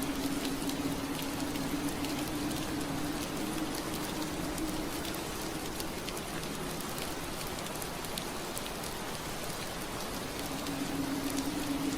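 Steady soft rain on window glass, a dense patter of small drop ticks over an even hiss, with a low steady hum underneath that fades in the middle and comes back near the end.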